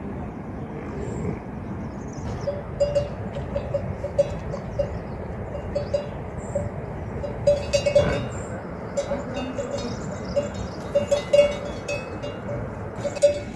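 Animal bells on sheep or goats clanking irregularly as the animals move, starting a couple of seconds in, over a steady background hiss.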